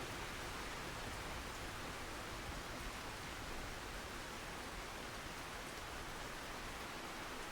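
Steady rainfall, an even hiss of rain falling on a surface with no letup.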